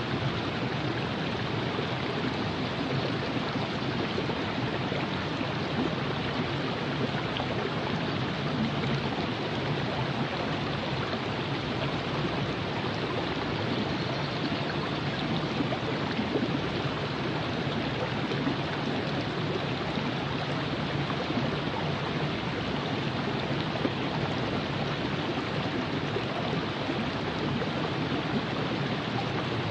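Virgin River flowing, a steady rush and babble of water over rocks.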